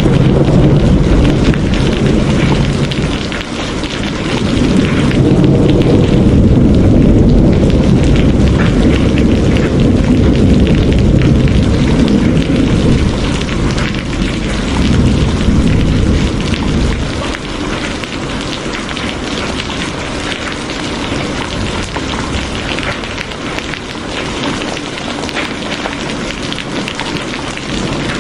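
Steady rain falling, with a long rolling rumble of thunder that swells and fades, dying away a little past halfway through and leaving the rain alone.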